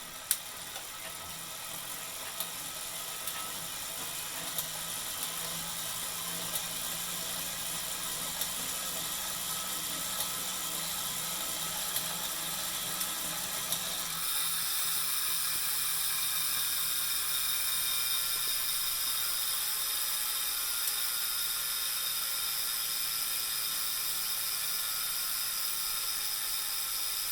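Wahoo Kickr smart bike trainer running: a steady whir that grows slowly louder, with a light tick about once a second and a low-pitched hum that has developed in the unit and whose cause the owner does not know. About halfway through, the sound turns brighter and hissier.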